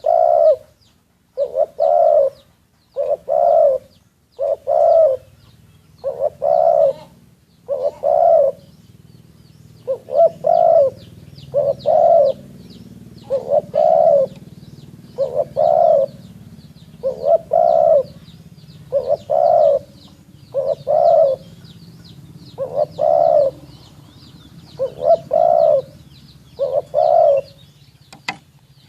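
Spotted dove cooing over and over, a phrase of two or three low notes about every one and a half to two seconds. Faint high chirping of small birds runs behind it.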